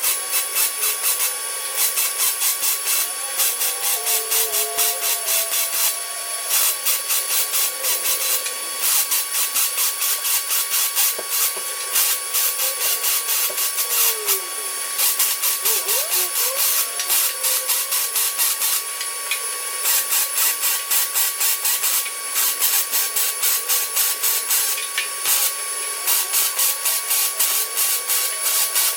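Welding arc crackling steadily on sheet-steel floorboard patch panels, laid down in runs broken by short pauses every few seconds.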